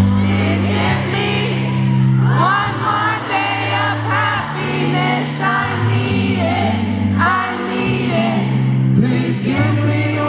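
Live pop song performance: a singer's vocal melody over a band, with long held bass notes underneath.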